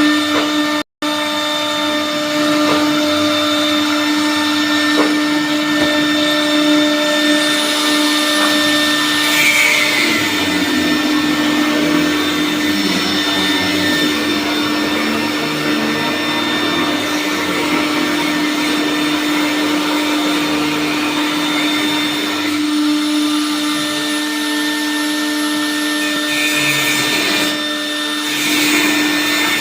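Aluminium sheet cutting machine running with a steady motor hum and whine over a hissing noise of cutting. High sweeping whines rise and fall twice, and the sound drops out briefly about a second in.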